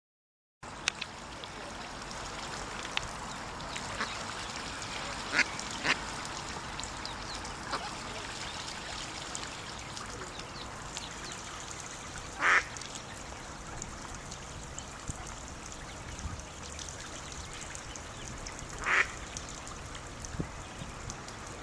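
Ducks quacking: a few single short calls, the loudest near the middle and near the end, over a steady background hiss.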